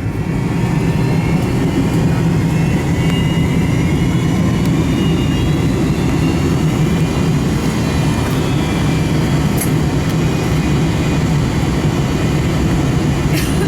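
Steady jet engine rumble heard inside the cabin of a McDonnell Douglas MD-88 airliner, whose rear-mounted Pratt & Whitney JT8D engines are running, with a faint whine that rises gently in pitch. There is a short click near the end.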